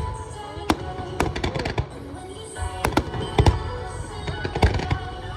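Aerial fireworks bursting in a string of irregular sharp bangs, about a dozen in a few seconds, over music from the show's loudspeakers.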